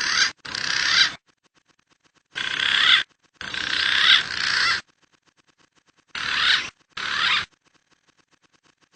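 Bird giving harsh, rasping calls in six separate bursts, each about half a second to a second and a half long, that start and stop abruptly.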